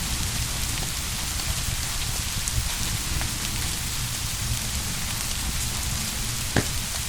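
Steady heavy rain with a low rumble underneath and scattered faint ticks. A single sharp click comes near the end.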